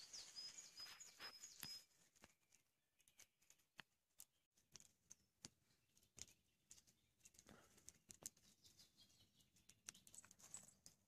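Faint dawn forest: a small bird's thin, high whistled notes in the first two seconds, then scattered soft clicks and crackles.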